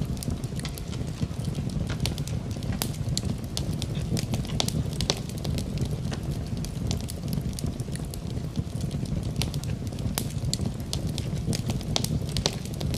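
Wood fire burning in a fireplace, crackling with many sharp, irregular pops over a steady low hiss of the flames.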